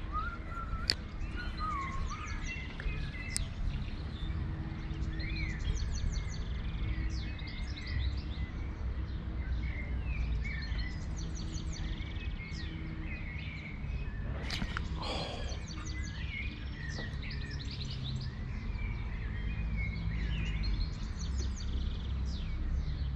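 Small songbirds chirping and singing in short repeated phrases, over a steady low background rumble.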